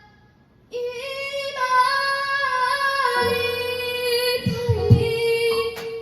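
A child singer holds one long sung note over keyboard accompaniment, coming in after a short pause at the start; a few low drum hits sound near the end.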